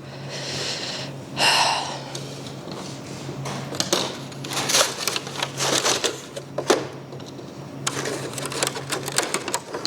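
Thin plastic seedling flats crackling and clattering as they are handled, pulled apart and stacked, in quick uneven clicks, over a steady low hum.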